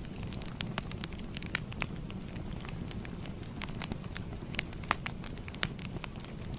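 Fire crackling: irregular sharp pops and snaps, a few louder than the rest, over a steady low rumble of flame.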